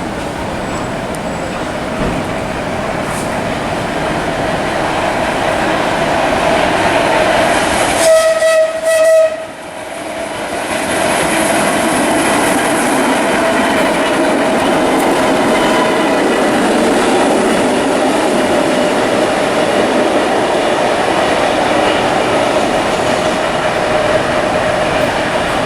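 Vintage New York City subway train running past, a steady rumble of wheels and motors with a held tone. About eight seconds in, its horn sounds in two short blasts.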